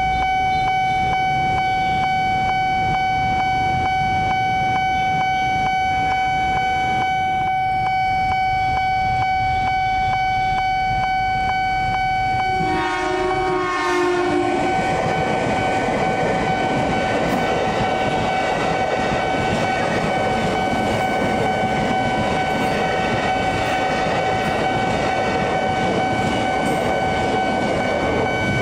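Level-crossing warning alarm sounding steadily throughout. About 13 seconds in a train horn sounds briefly, then the running noise of a KRL electric commuter train passing over the crossing fills the rest, with wheel clatter on the rails.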